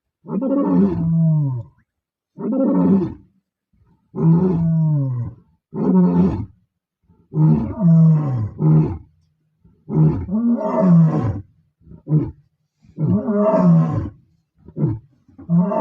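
Male lions roaring in a sequence of about a dozen calls with short gaps between them. The early calls are drawn out and fall in pitch, and the later ones are shorter grunts.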